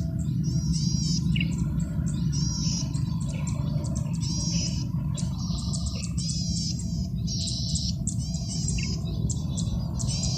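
Male golden-headed cisticola singing: short, rapid trilled phrases repeated about once a second, over a steady low hum.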